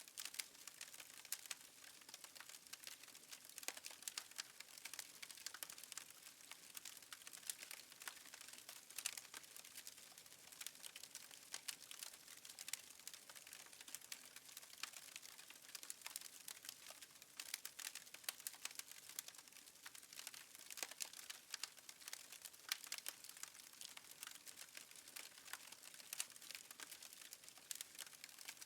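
Wood fire crackling softly in a fireplace: a steady stream of small pops and snaps over a faint hiss.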